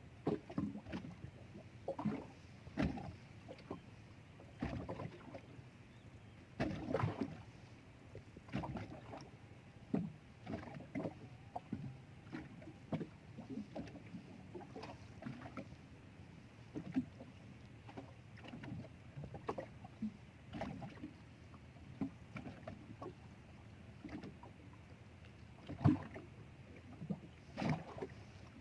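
Water lapping and slapping against a small boat's hull, with irregular knocks and thuds every second or so.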